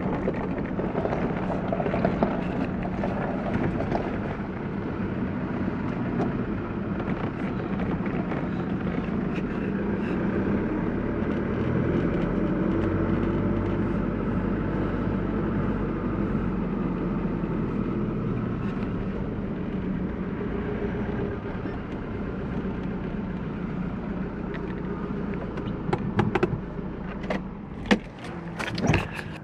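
A vehicle's engine running and its tyres rolling, heard from inside the cab while driving, with a deeper engine drone from about halfway through. A few sharp knocks and clicks near the end.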